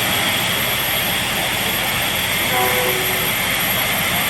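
Pacific-type steam locomotive giving off a steady rushing hiss of steam, with a brief faint tone about two and a half seconds in.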